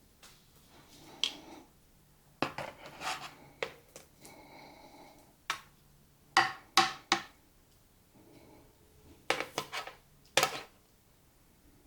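A series of sharp clinks and knocks of a kitchen utensil against a casserole dish, some coming in quick runs of two or three, with a short ringing tone near the middle, as chicken legs are set into the rice mixture.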